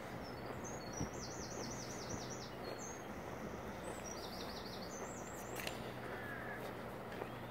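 A songbird singing two short phrases, each a quick run of repeated high notes, over a steady outdoor background hiss.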